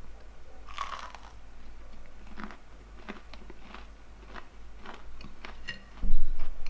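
Person biting into a crunchy breaded, fried fish fillet, with one loud crunch about a second in, then chewing with a scatter of small crunches. A brief low thump near the end.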